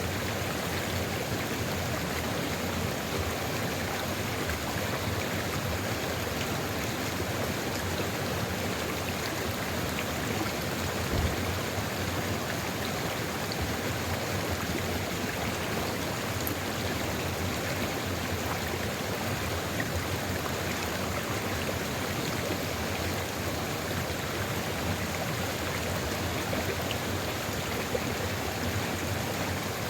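Sulfur river flowing in a steady, even rush of water, with one brief low thump about eleven seconds in.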